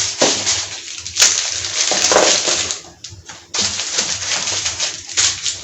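Grocery packaging being handled, with irregular rustling and crinkling that pause briefly about three seconds in.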